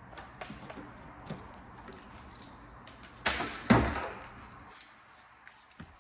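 Light clicks and handling noises, then a loud slam about three seconds in: a sharp clack followed at once by a heavy thud that dies away over about a second.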